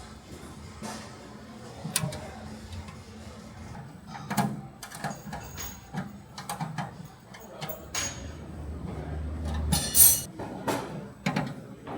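Irregular metal clinks and knocks of bolts, washers and nuts being fitted to a pump's metal coupling guard and tightened with crescent wrenches, with a louder scraping rasp about ten seconds in.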